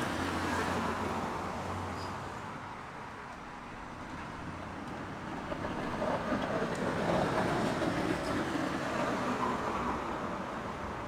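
Road traffic passing: one vehicle's noise fades away over the first few seconds, then another approaches and passes about six to nine seconds in.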